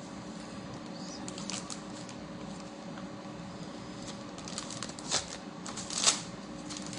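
Plastic freezer bags rustling and crinkling in short bursts as raw chicken wings are handled and divided into them, the loudest about six seconds in, over a steady low hum.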